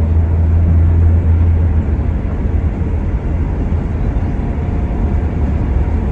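Steady low rumble of a vehicle's engine and motion, heard from inside, a little louder for the first two seconds.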